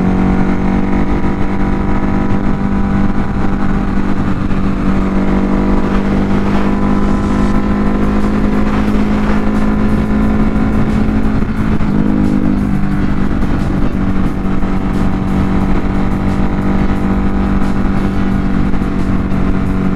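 Ducati Hypermotard 950 RVE's L-twin engine running steadily at highway cruising speed, with a brief shift in pitch about twelve seconds in.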